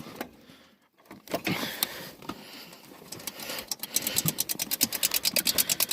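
Opposed-twin mudmower engine cutting out suddenly, the mower stalling. Then scattered clicks that settle into a rapid, even run of about eight clicks a second in the second half.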